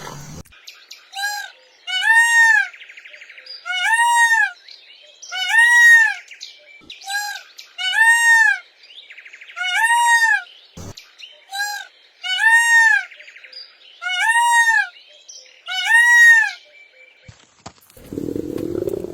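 A bird calling: a clear note that rises and falls in an arch, repeated about every two seconds, often with a shorter note just before it.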